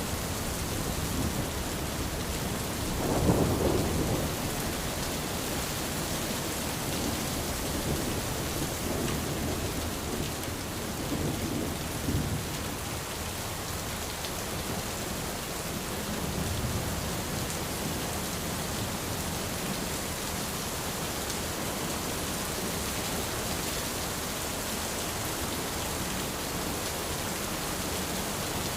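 Steady rain falling on an umbrella, with a low rumble of thunder about three seconds in and fainter rumbles a little later.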